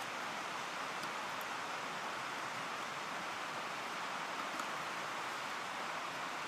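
Mountain stream flowing: a steady rushing of water, with a few faint ticks.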